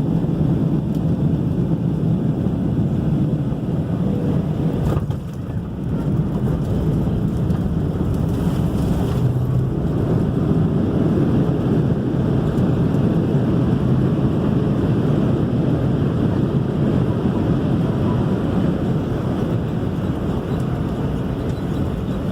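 Steady low rumble of a vehicle in motion heard from inside it, with a short dip in level about five seconds in.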